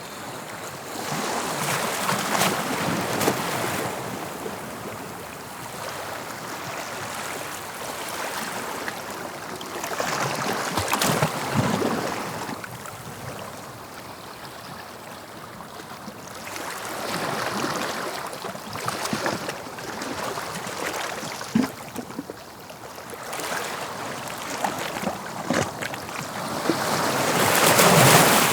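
Sea waves breaking on the shore. Each breaker rises to a rushing hiss and then drains away, about every eight seconds, and the loudest comes near the end.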